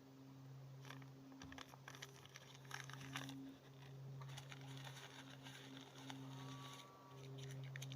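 Faint crackling and rustling of paper tinder being handled and crumpled, in scattered bursts that are densest in the first half, over a steady low hum.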